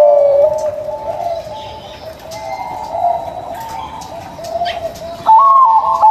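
Zebra doves (perkutut) cooing. A loud call dies away at the start and softer, overlapping cooing carries the middle. About five seconds in a loud new call begins: a higher opening note, then a quick run of short notes.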